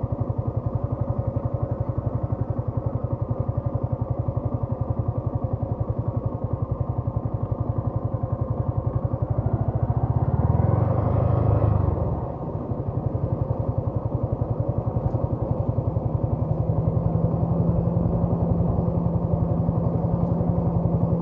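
Yamaha R15 V3's 155 cc single-cylinder engine running under way with a fast, even pulse. About ten seconds in the revs climb and the engine gets louder, then drop away sharply around twelve seconds before settling back to a steady run.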